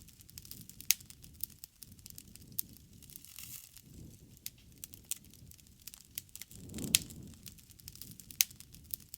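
Wood fire crackling, with sharp snaps and pops at irregular intervals over a low rush that swells about seven seconds in.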